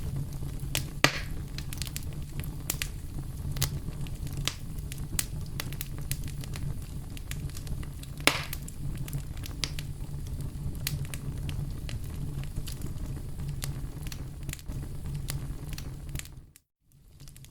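Campfire burning: sharp crackles and pops over a low steady rumble, with two louder pops about a second in and about eight seconds in. The sound cuts out for a moment near the end.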